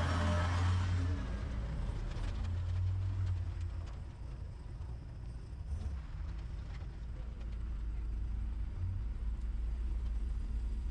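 Low, uneven rumble of a motor vehicle running, louder in the first second or so.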